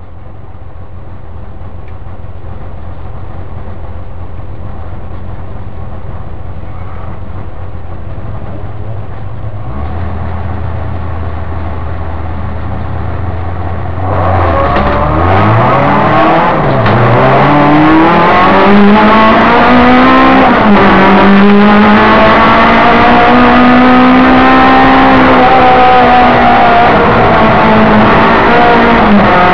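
Opel Ascona race car's four-cylinder engine heard from inside the cabin: idling steadily, held at higher revs about ten seconds in, then pulling away about fourteen seconds in, the revs climbing and dropping through several gear changes before running at high revs, with a brief dip near the end.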